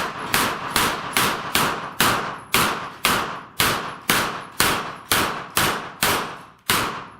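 A rapid, evenly paced string of gunshots, about two a second and around fourteen in all, each followed by a short fading echo: a shooter firing through a course of steel plate targets.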